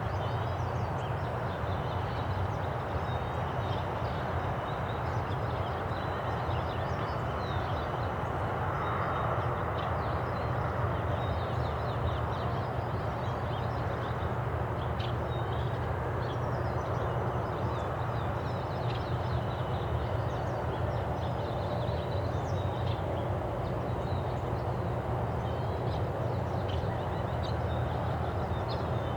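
Steady low rumble of distant road traffic, with many short bird chirps scattered throughout.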